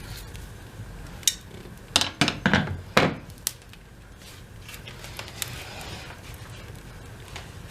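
Knocking and clatter from tending a wood fire in a fireplace: a quick run of hard knocks about two seconds in, with scattered crackling clicks around it.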